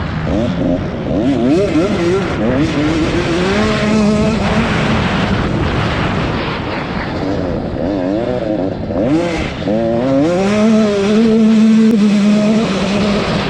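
Racing dirt-bike engines revving hard, their pitch climbing and dropping back again and again through gear changes and corners. Twice the revs climb and hold high as the bikes accelerate down a straight.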